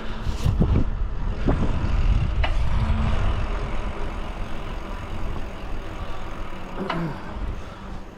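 Wind buffeting the microphone and road noise from a bicycle being ridden, a loud, uneven low rumble, with a few short clicks.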